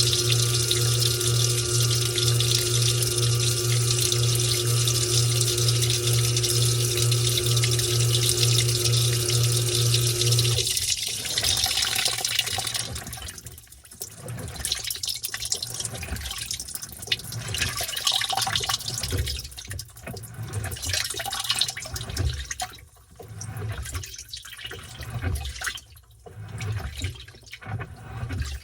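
Washing machine filling with water: a steady hum over rushing water. About ten seconds in, the hum and rush cut off, and irregular swishing of water and wet towels churned in the tub follows.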